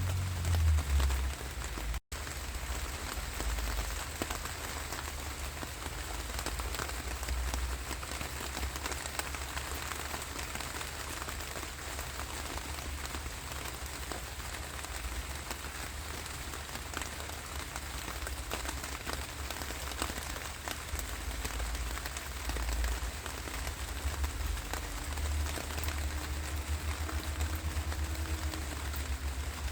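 Steady rain falling, a dense patter of drops over a low rumble. The sound drops out for a split second about two seconds in.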